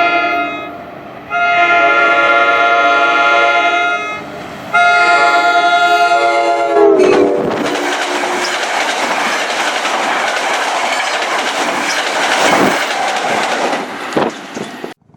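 Train horn sounding long chord blasts for a grade crossing: the end of one, then two more, the last sliding down in pitch as the locomotive passes. Then the train rushes by with wheel clatter on the rails, cutting off suddenly near the end.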